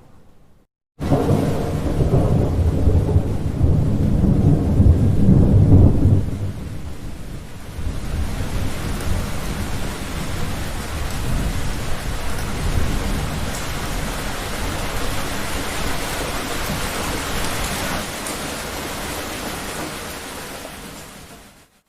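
A long roll of thunder that breaks in suddenly about a second in and rumbles for some six seconds, followed by heavy steady rain that fades out near the end.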